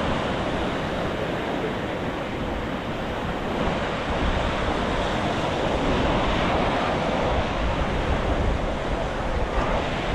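Sea surf washing steadily onto the shore, rising and falling gently in loudness, with wind buffeting the microphone in a low rumble.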